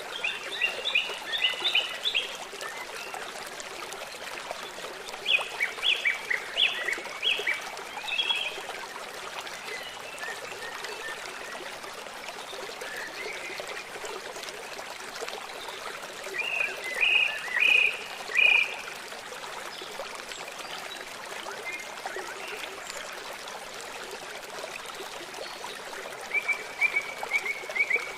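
Songbirds singing in four short bursts of quick, high chirps, over the steady hiss of running water from a stream.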